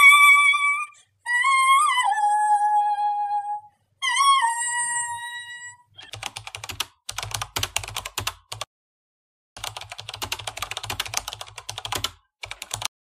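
A few high held musical notes, each bending slightly as it starts. Then computer keyboard typing clicks come in two quick runs, starting about six seconds in and again about ten seconds in, as text types onto the screen.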